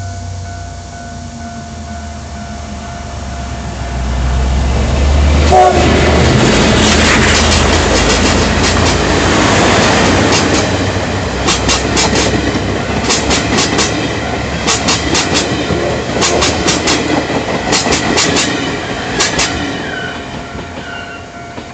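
A train hauled by the CT273 steam locomotive passes close by. A heavy rumble builds about four seconds in, then the coach wheels clack over the rail joints in quick groups of clicks, bogie after bogie, before the sound fades near the end. A thin steady tone from the level-crossing signal sounds underneath.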